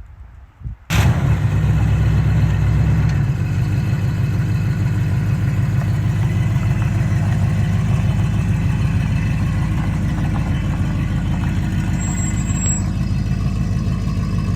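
Car's 350 V8 engine running. It comes in suddenly about a second in, runs faster and louder for the next couple of seconds, then settles into a steady idle.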